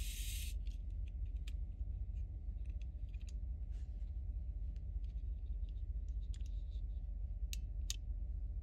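Small plastic toy parts clicking and tapping faintly as they are handled, over a steady low hum, with two sharper clicks near the end.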